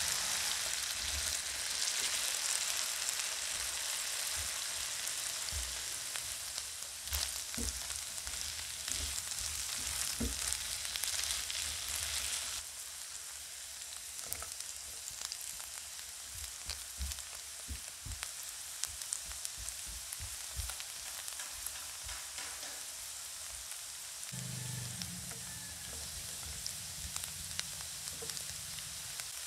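Diced beef loaf, potato and carrot sizzling in oil in a nonstick frying pan, with scattered soft knocks and scrapes from a silicone spatula stirring. The sizzle drops to a quieter level a little under halfway through, and a low hum joins near the end.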